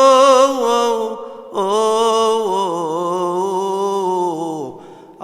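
A male deacon's solo voice chanting a slow, melismatic Coptic Orthodox hymn, with wavering ornaments on long held notes. There is a short break for breath about a second in, and the second phrase fades out near the end.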